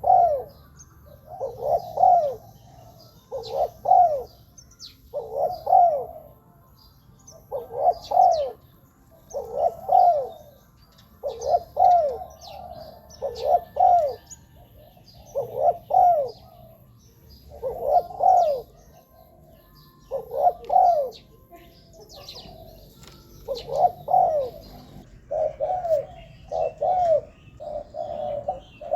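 Spotted dove cooing over and over: a phrase of two or three low coos about every one and a half to two seconds, the call of a decoy dove used to lure wild spotted doves. Faint high chirps of small birds sound behind it.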